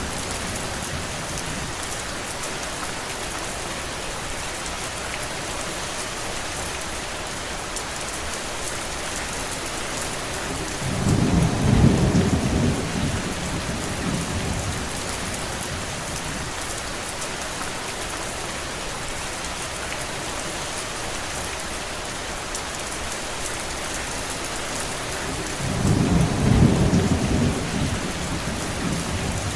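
Steady rain falling, with two low rumbles of a few seconds each: one near the middle and one near the end.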